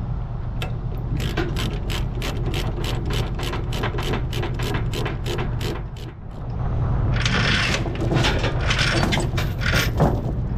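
Diesel truck engine idling with a low rumble, under a quick run of mechanical ratcheting clicks, about four a second, for around five seconds. Near the end a louder burst of hissing noise takes over.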